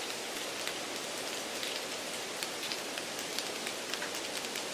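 Steady rain-like hiss with scattered light ticks, like rain pattering on a surface. It is background noise deliberately laid under the recording to mimic a noisy exam room.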